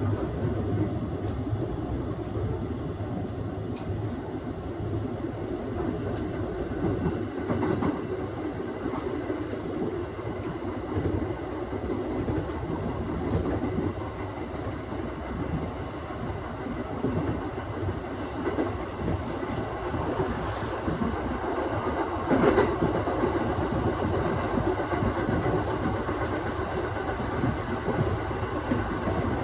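Aoimori Railway 701 series electric train running along the line, heard from inside the car: a steady rumble of wheels on rails with a few clacks over rail joints, the loudest about two-thirds of the way through.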